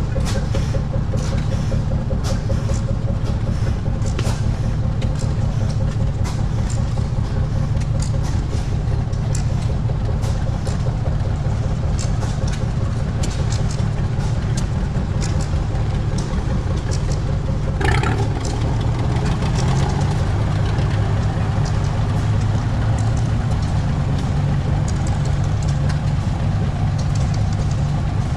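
An engine running steadily and close by, with a fast, even firing rhythm that holds throughout. A brief higher-pitched tone cuts in about eighteen seconds in.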